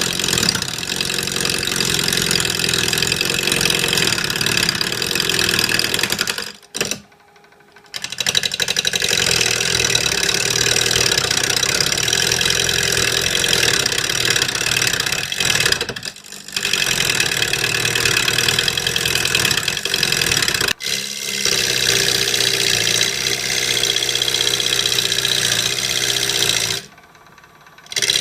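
Wood lathe running while a carbide-tipped turning tool cuts into the spinning wood, a steady motor hum under a hissing cut. It goes in several long stretches, each broken by a brief drop of about a second.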